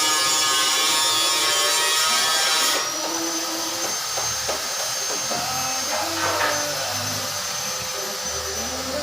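Workshop power tool or motor running. About three seconds in the sound changes abruptly to a steady high whine over a hiss, with scattered knocks and clatter.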